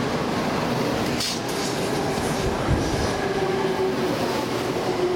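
700 Series Shinkansen train rolling into the station platform: a steady rumble of wheels on rail with a whine of several tones, and one sharp clack about a second in.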